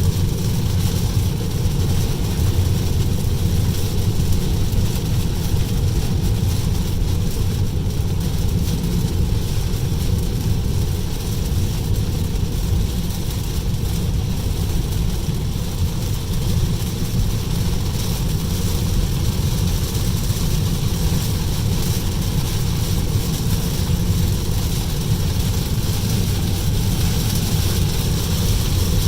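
Steady road noise of a Tesla electric car driving in heavy rain: wet tyre hiss and rain on the car, with a low rumble and no engine sound.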